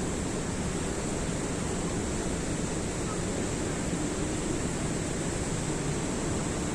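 Steady rush of flowing water, even and unbroken, with no pitch or rhythm to it.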